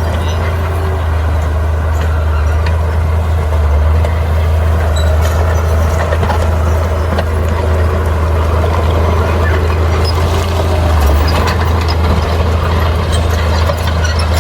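Bulldozer's diesel engine running steadily with a deep, loud drone, with scattered clicks and knocks over it, more of them near the end.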